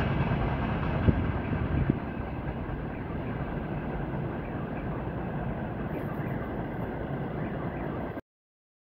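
Freight train tank wagons rolling away on the rails, a rumble with two sharp wheel clicks in the first two seconds. It drops to a steadier, quieter rolling noise as the train recedes, then cuts off abruptly near the end.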